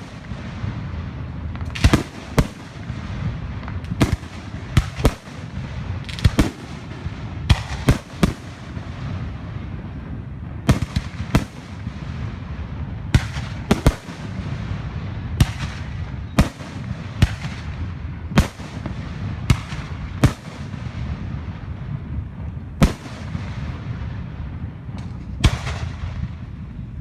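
Fireworks going off: about twenty sharp bangs, spaced irregularly from half a second to a few seconds apart, over a steady low rumble and crackle.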